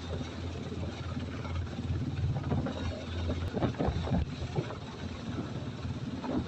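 Military helicopter running steadily, a low drone from its rotor and engine. A rougher, louder stretch of noise comes between about two and five seconds in.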